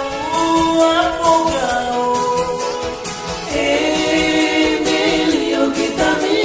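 Background song: voices singing long, held notes, joined about halfway through by several voices in harmony.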